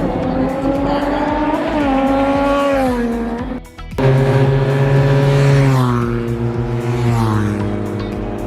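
Racing motorcycle engines at high revs on a circuit. The pitch rises and then falls, breaks off briefly about three and a half seconds in, and comes back louder with the pitch dropping in steps.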